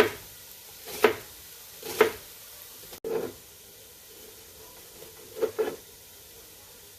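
Kitchen knife chopping celery on a cutting board: three sharp strokes about a second apart, a longer scraping stroke, then a quick pair of cuts near the end, over a faint steady hiss.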